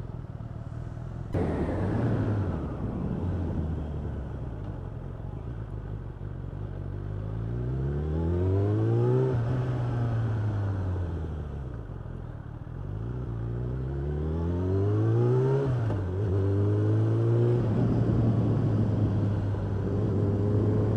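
Suzuki Bandit motorcycle's inline-four engine through an Ixil aftermarket exhaust, rising in pitch twice as the bike accelerates, each climb ending in a sudden drop as it shifts up, then running at a steady cruise.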